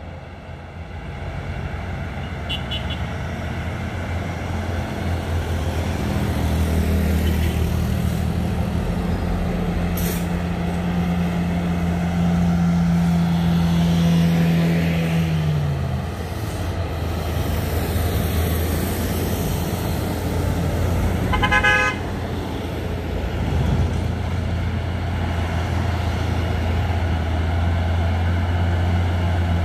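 Heavy diesel truck engine labouring steadily; its note holds for several seconds, then drops away, and a short horn toot sounds about two-thirds of the way through.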